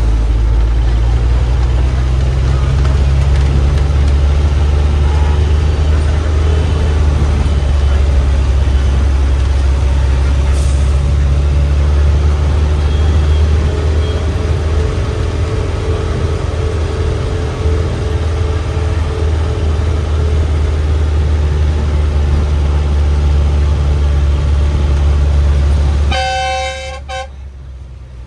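Bus engine running with a deep, steady rumble. Near the end the rumble drops away and a vehicle horn gives a short toot.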